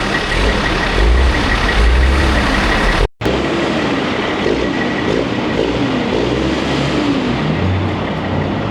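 Heavy truck engine running loudly, the sound breaking off for an instant about three seconds in.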